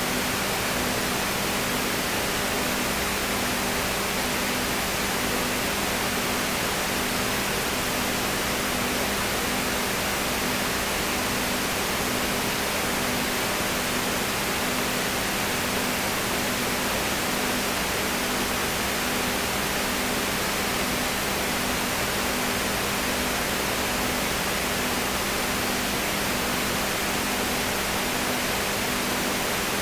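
Steady, unchanging hiss with a low hum underneath that pulses regularly.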